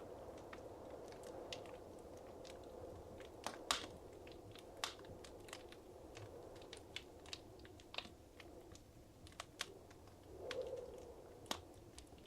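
Wood fire crackling softly in a fireplace, with scattered sharp pops and snaps over a low, steady rush of flame.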